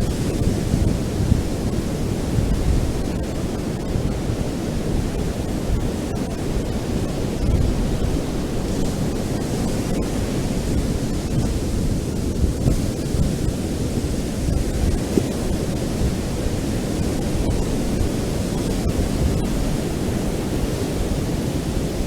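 Ocean surf on a beach: a steady rush of breaking waves with a heavy low rumble, running on evenly without separate crashes standing out.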